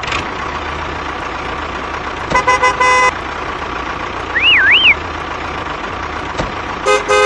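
Vehicle engine running steadily, with a run of short horn honks about two and a half seconds in and another honk near the end. A brief warbling tone sounds in between.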